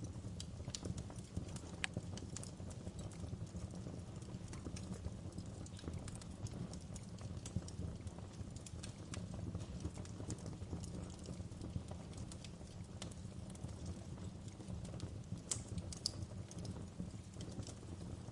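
Wood fire burning: irregular sharp crackles and pops from the burning wood over a low, steady rumble.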